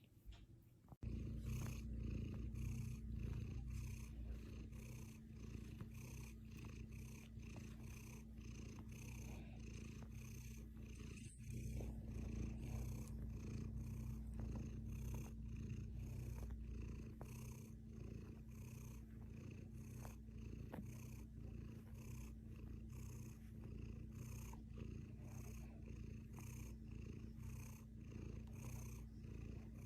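A domestic cat purring, starting suddenly about a second in and going on steadily in an even rhythm of about two pulses a second.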